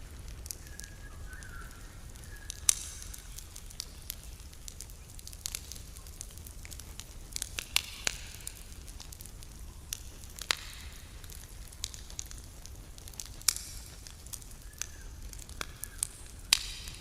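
Campfire burning, the wood crackling with irregular sharp pops, a few of them much louder than the rest. A few faint short chirps sound near the start and near the end.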